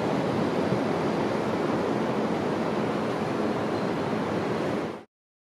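Steady roar of street traffic noise without distinct events, cutting off abruptly about five seconds in.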